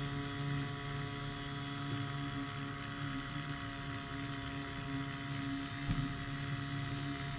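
Engine and propeller of a powered hang glider running at a steady drone, with a brief knock about six seconds in.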